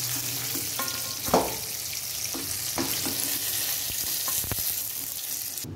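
Eggplant pieces sizzling in hot mustard oil in a kadai, with a metal spatula clinking and scraping against the pan as the fried pieces are lifted out. There are several sharp clinks, and the sizzle cuts off suddenly near the end.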